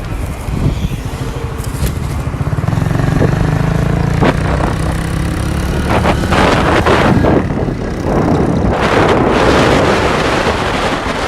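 A motor vehicle's engine running close by, steady with a few louder surges, cutting off abruptly at the end.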